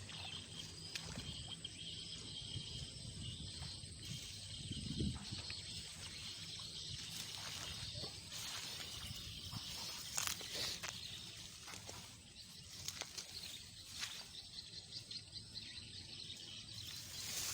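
Outdoor wetland ambience: a steady high insect drone, with rustling of someone moving through undergrowth and a few sharp snaps or clicks.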